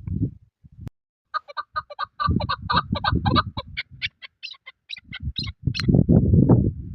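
Chukar partridge calling a fast run of short clucking notes, about four to five a second, for several seconds before stopping near the end. Wind buffets the microphone as a low rumble under and after the calls.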